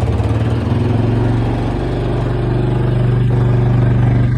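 Honda off-road bike engine idling steadily just after a cold start, with a fast, even firing rhythm.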